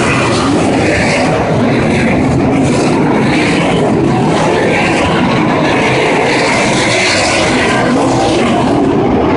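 A pack of sprint cars racing, their engines running loud and continuous with overlapping, wavering engine notes as the cars circle the track.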